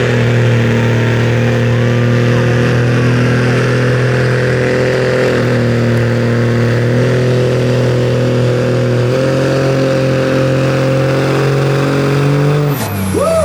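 Truck engine running hard at high revs under load as it pulls the weighted sled down the track, holding a steady pitch. The pitch dips slightly about five seconds in and steps up about nine seconds in, then the engine winds down a second before the end.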